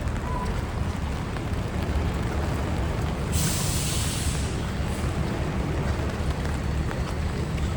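Rainy city street ambience: a steady low traffic rumble under an even hiss of rain. About three seconds in, a sharp hiss cuts in for about a second and a half.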